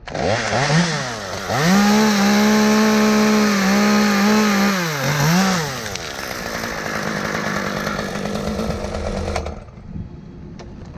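Two-stroke chainsaw revving up to full throttle and held there for about three seconds, dropping back and blipped twice, then running rougher with no clear pitch until it cuts off suddenly near the end.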